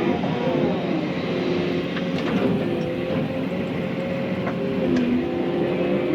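Excavator's diesel engine running steadily under work, its pitch dipping briefly about five seconds in, with a few short sharp clicks or cracks over it.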